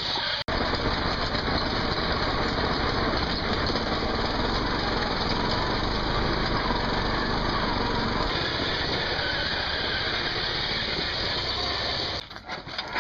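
Troy-Bilt riding lawnmower's small engine running steadily under load as the stripped, re-pulleyed mower is driven, with a sharp break about half a second in and another near the end.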